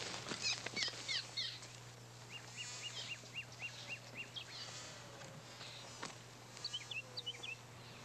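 Songbirds chirping: a few quick chirps at the start, a fast run of repeated short notes in the middle, and another brief flurry near the end, over a faint steady low hum.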